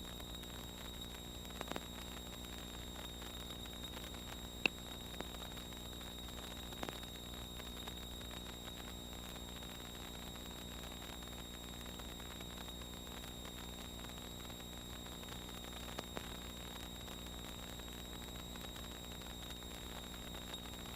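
Faint steady hiss and low hum of an aircraft's radio and intercom audio feed between transmissions, with a few faint clicks.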